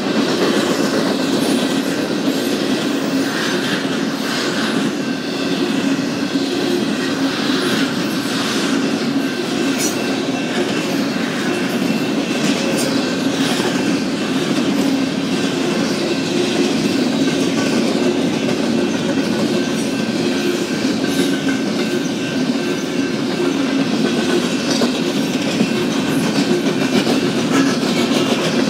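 Double-stack intermodal freight train passing close by: the steady rumble and rattle of loaded container well cars, with the wheels clacking over the rails and a faint steady high-pitched ring on top.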